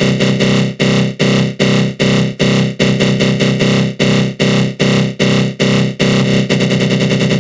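Synthesized growl sound effect from the GMS synth with a flanger, pulsing about two and a half times a second. About six seconds in, the pulses come faster and shallower.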